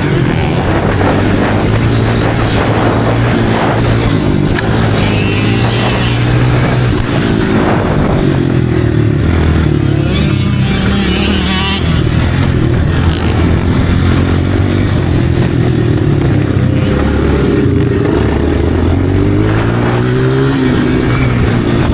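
Motocross dirt bike engine running hard as it is ridden, its pitch rising and falling with the throttle.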